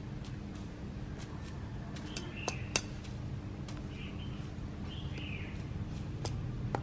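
Small birds chirping faintly now and then over a steady low background hum, with a few sharp ticks between the chirps.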